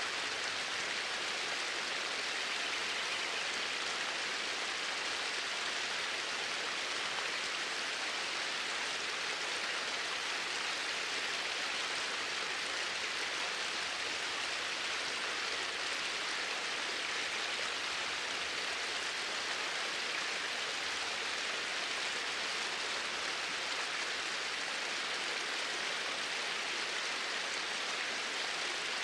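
Steady rush of flowing water, even and unchanging throughout.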